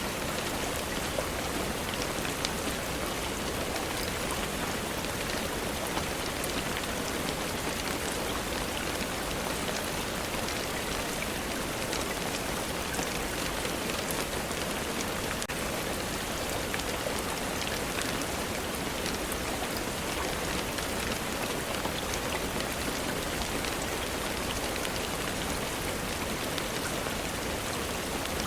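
Steady rainfall: an even hiss of rain dotted with many small, sharp ticks.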